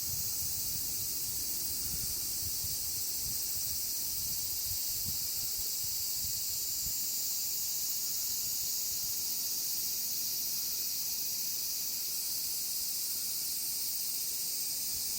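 A chorus of many cicadas singing at once, a steady, unbroken high-pitched drone.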